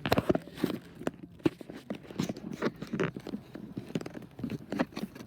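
Automatic car wash working over the car, heard from inside the cabin: an irregular patter of knocks and splashes against the body, several a second.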